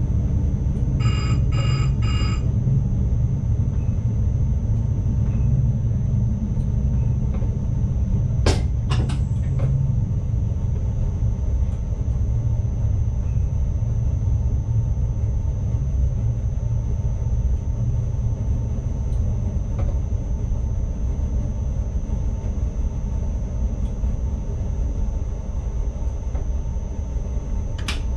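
Cab of an NS ICMm (Koploper) electric intercity train running: a steady low rumble with a thin high whine throughout. Three short electronic beeps come just after the start, and sharp clicks about nine seconds in and near the end.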